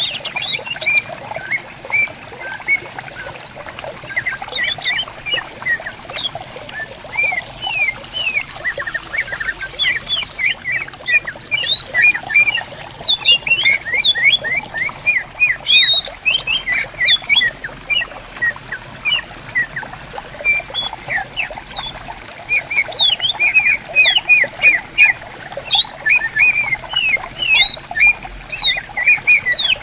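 Greater green leafbirds (cucak ijo) singing back and forth in rapid runs of short, sweeping whistled notes, over the steady trickle of a stream.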